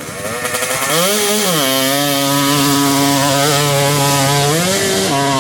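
Dirt bike engine revving hard: the pitch climbs and drops about a second in, then holds at steady high revs, with another brief rise in pitch near the end.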